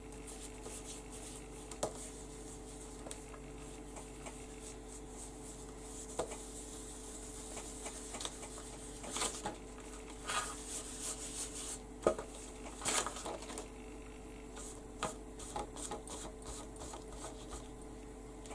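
Soft rubbing, rustling and small clicks from hands working paint and craft materials on a paper journal page, with a few short clusters of sounds, over a steady faint hum.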